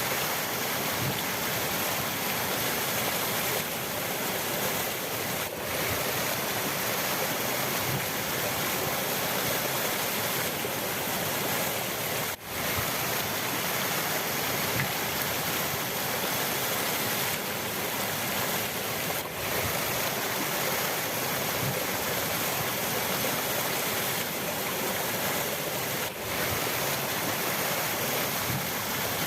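River water rushing steadily, a dense even wash of flowing water. The sound dips for a moment three times.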